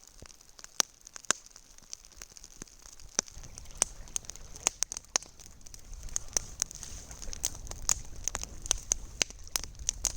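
Campfire crackling, with many sharp irregular pops and snaps; a low steady rush joins in about a third of the way through.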